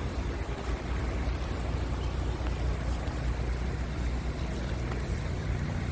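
Scania R tractor unit's diesel engine running steadily, a low even rumble.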